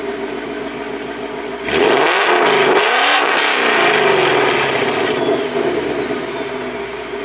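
Ford Mustang GT's V8 idling through long-tube headers, an X-pipe and the factory active-valve mufflers, revved once about two seconds in: the engine note climbs sharply, holds briefly and falls back to idle a few seconds later. Really loud.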